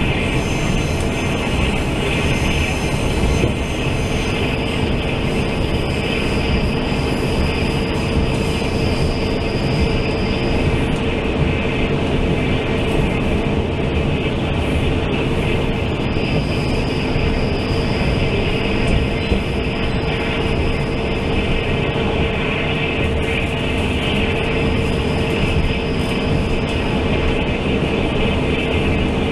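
Taiwan Railway Fu-Hsing express passenger coach running at speed, heard inside the car: a steady rumble of wheels on the track with a faint high whine that comes and goes three times.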